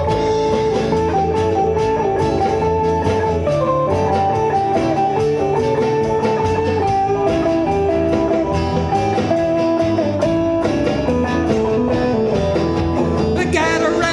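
Rock and roll band playing an instrumental break, with a guitar taking the lead melody over bass and a steady beat.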